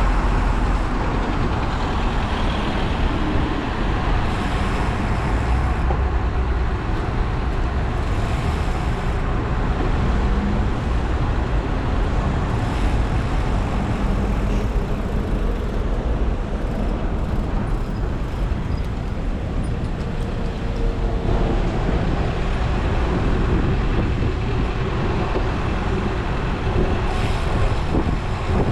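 Steady wind and road noise while riding a road bike, picked up by a GoPro Hero 11 action camera's microphone, with a deep rumble throughout.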